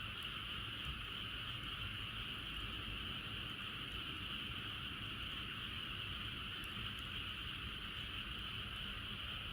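A dense chorus of many frogs calling at once, a steady unbroken high trilling wash, over a low rumble.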